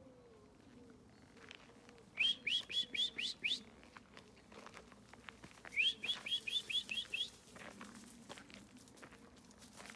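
A bird calling: two runs of about seven quick rising chirps each, a few seconds apart, with faint rustling through the undergrowth after them.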